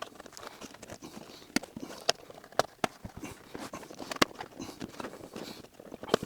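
Scattered sharp clicks and rustling as a vinyl-and-fabric seat cover is worked onto a car seat.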